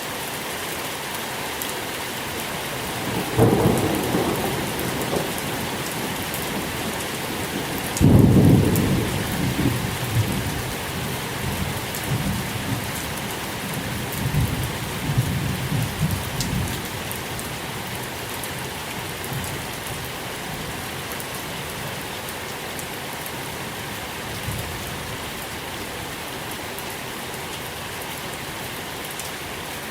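Steady rain falling, with rolling thunder: a rumble about three seconds in, then a louder one about eight seconds in that keeps rumbling on and off for several seconds before dying away.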